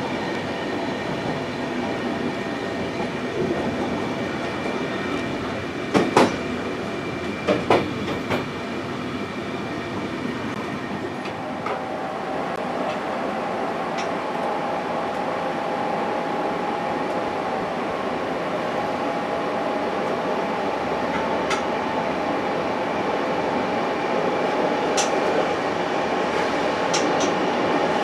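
Passenger train running on the rails: a steady rumble that grows slowly louder, with sharp knocks about six and eight seconds in and a steady hum joining about eleven seconds in.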